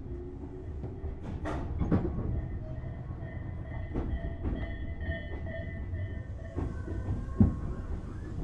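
Tobu 6050 series electric train heard from inside the motor car while running: a steady rumble of the wheels with short knocks over the rail joints. A high steady ringing tone rises over it for a few seconds in the middle, and one sharp knock comes near the end.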